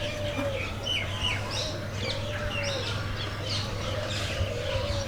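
Many aviary birds chirping and calling over each other in quick short notes, with a lower call repeating about every two seconds.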